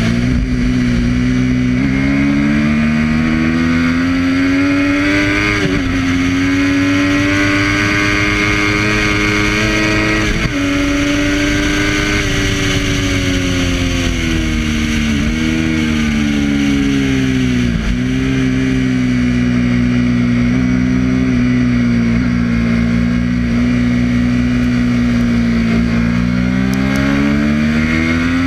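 Triumph Daytona 675's three-cylinder engine pulling hard on track. Its pitch climbs with the revs and breaks off sharply at each gear change, with a few quick dips close together around the middle.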